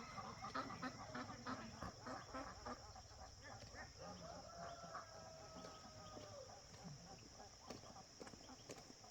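Faint chickens clucking, with a rooster giving one long crow from about four seconds in, over a steady high hiss.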